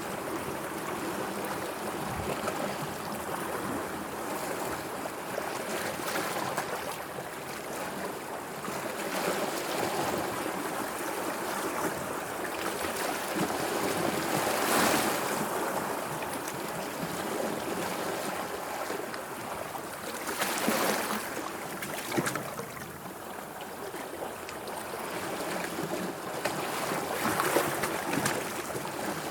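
Sea water washing and lapping in a steady wash that swells into louder surges about halfway through, again a few seconds later, and near the end.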